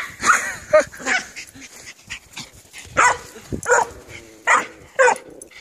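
Dog barking in short, separate barks, about eight of them at uneven intervals.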